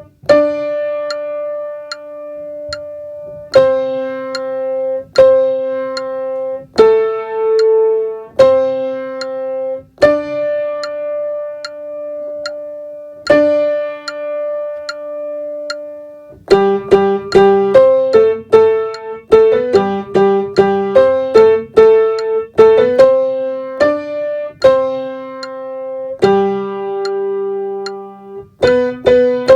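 Piano-toned keyboard playing a single melody line one note at a time: the tenor part of a choral song, played alone for part practice. Mostly long held notes, with a quicker run of short notes about halfway through.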